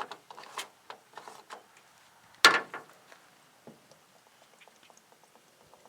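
Plastic jug of diesel fuel conditioner being handled and poured into a truck's fuel filler: scattered clicks and knocks, one loud clunk about two and a half seconds in, then a faint patter of small ticks as the liquid runs in.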